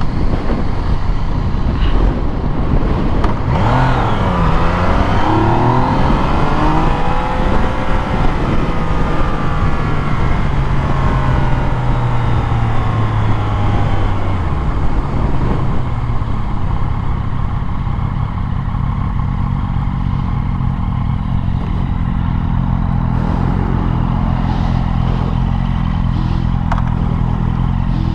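Motorcycle engine heard from the rider's position. Its pitch dips and climbs again over the first several seconds, holds fairly steady, drops away about halfway through, then settles into a steady low running note.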